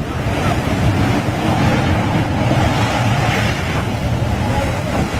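Wind buffeting the microphone over the rush of sea water, steady and loud throughout.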